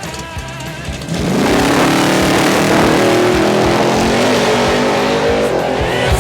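A car engine accelerating hard from about a second in, its pitch rising steadily over several seconds, mixed with rock music.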